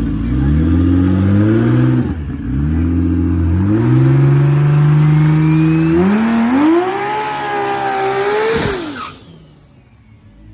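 Drag car engine at full throttle, its pitch climbing and dropping back several times as it pulls through the gears, then holding high before falling away. The sound cuts off suddenly about nine seconds in.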